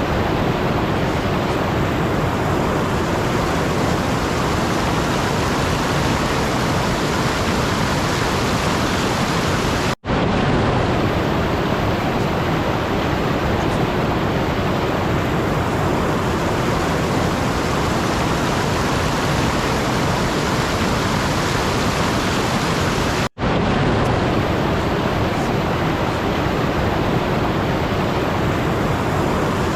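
Steady, even rushing noise with no tones in it, like a pink-noise or rain-style ambience track. It cuts out for a split second about ten seconds in and again about thirteen seconds later.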